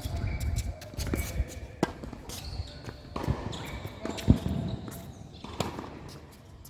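Tennis balls being struck and bouncing: a sharp hit roughly every second, the loudest a little past the middle.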